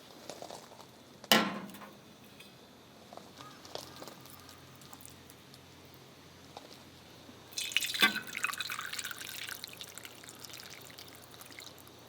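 A sharp glassy clink, then liquid poured into a glass, which fizzes with a crackly hiss that slowly fades: a highball being made.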